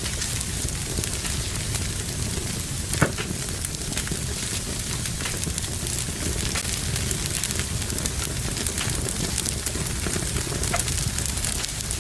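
Fire burning in a fireplace, crackling steadily over a low rumble of flame, with one sharp pop about three seconds in.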